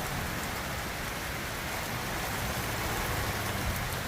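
Heavy downpour of rain, a steady, even hiss of rain falling on surfaces.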